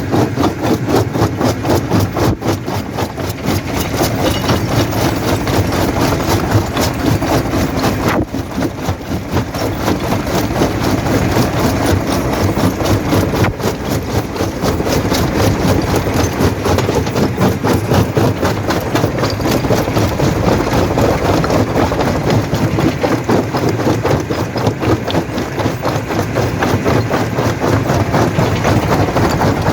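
Jaw rock crusher running: a loud, steady heavy-machine drone with a fast, even rattling pulse.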